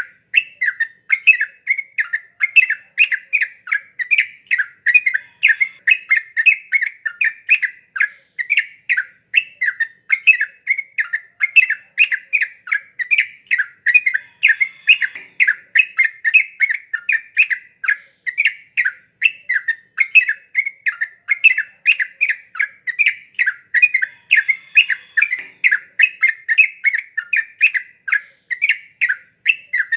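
Yellow-vented bulbul (trucukan) singing in full voice: an unbroken, rapid run of short chirping notes, several a second.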